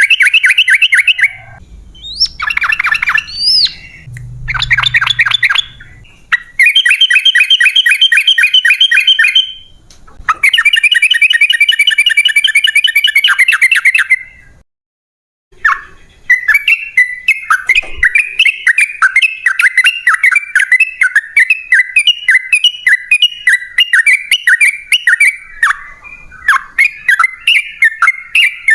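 Yellow-vented bulbul (trucukan) singing: several bursts of fast, chattering runs of repeated notes. The sound cuts out completely for a moment about halfway, then a long unbroken run of quick notes follows.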